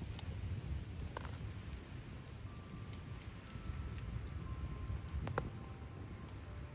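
Rain falling with a low rumble underneath, and a campfire crackling: scattered sharp pops, with a louder crack about five seconds in.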